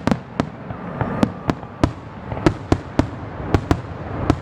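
Fireworks display: a quick, irregular string of sharp bangs, about three a second, from shells bursting overhead.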